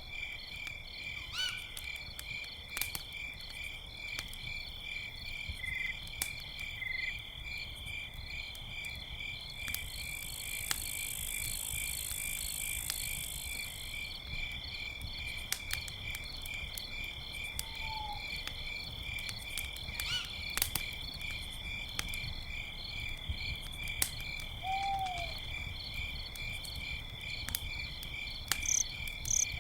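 Crickets chirping steadily in a fast pulsing trill, over a campfire crackling with scattered snaps and pops. An owl gives two short hoots, about 18 and 25 seconds in.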